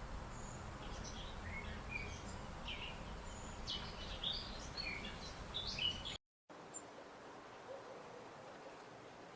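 Several songbirds chirping and trilling in quick short calls over a low outdoor background hiss, busiest in the first six seconds; the sound cuts out for a moment at about six seconds, then the birds are sparse and quieter.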